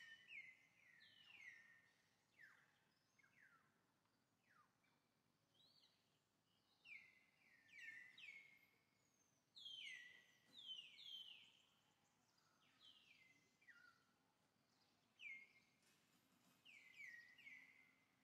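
A bird calling: faint short chirps that slide down in pitch, coming in quick runs of two to four and repeated every second or two, over a soft outdoor hiss.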